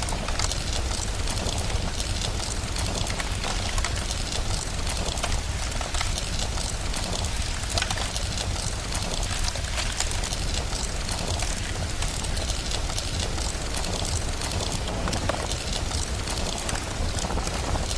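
Steady rain with a crackling fire: a dense, even hiss full of small irregular crackles over a constant low rumble.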